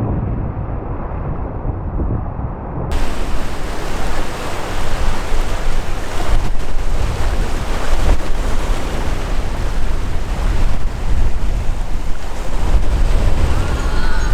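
Sea waves breaking and washing, with wind buffeting the microphone: a rough, rushing noise with a heavy, gusty low rumble that gets louder and brighter about three seconds in.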